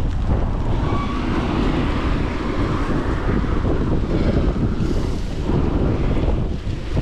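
Wind buffeting the camera microphone while riding a folding bike downhill: a loud, steady rumble and hiss.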